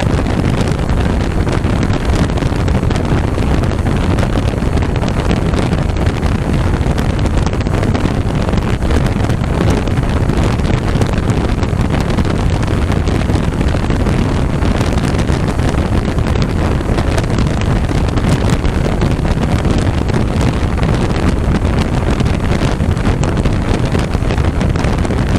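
Wind rushing over the microphone of a motorcycle riding at highway speed: a loud, steady, low rumbling noise with no break.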